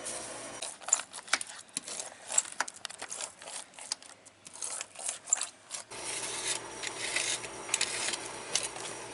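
Fiberglass laminating roller worked back and forth over resin-wet fiberglass mat, a rough rubbing and scraping broken by many sharp clicks, pressing the mat down so it sticks.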